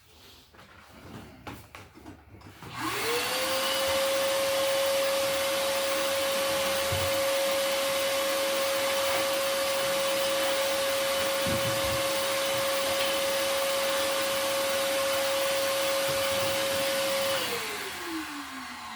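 Shop vacuum cleaning up planer chips and dust. It is switched on about three seconds in and runs steadily with a constant whine and rushing air, with a few faint knocks of the hose or nozzle along the way. Near the end it is switched off and winds down in falling pitch.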